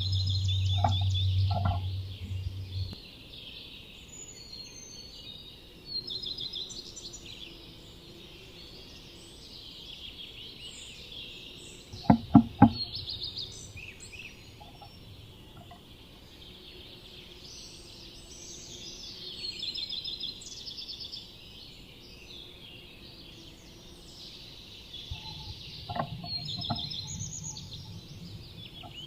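Several wild songbirds singing continuously around a nest box, with a low hum in the first three seconds. Two short clusters of sharp knocks come about twelve seconds in and again near the end.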